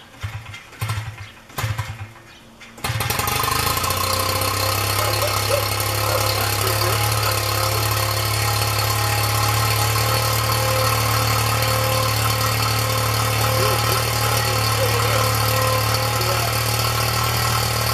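Zenoah GT80 two-stroke gas engine of a giant-scale RC plane running through a custom tri-tip scale exhaust, with a deep, throaty sound. A few uneven pops for the first seconds, then about three seconds in it jumps abruptly to a loud, steady run that holds.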